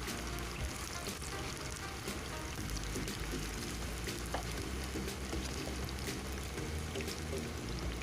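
Flour-and-egg-coated chicken pieces deep-frying in hot oil: a steady sizzle with frequent small crackles and pops.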